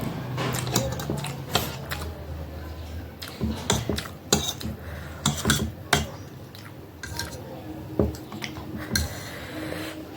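A utensil clinking against a plate while eating instant noodles: several sharp clinks spread unevenly through, with softer handling sounds between.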